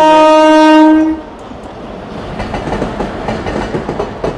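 Express train's horn sounding one loud, long blast that cuts off about a second in, followed by the rhythmic clickety-clack of its wheels over the rail joints as the train comes through the station.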